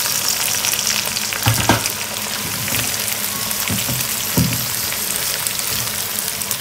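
Beans and black-eyed peas sizzling steadily as they fry in oil with chicken and dried shrimp in a pot, being stirred, with a few dull knocks of the spoon against the pot.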